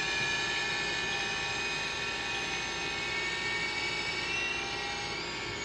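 Electric motor and rotors of an Extreme S-8G RC toy helicopter whining steadily in flight, the pitch wavering slightly as the throttle changes.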